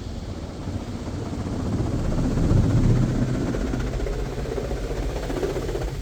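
Touch-free automatic car wash (Mark VII Aqua Jet GTO-300) spraying water and foam onto the car. Heard from inside the car as a dull, steady rushing that swells to its loudest about three seconds in, then holds.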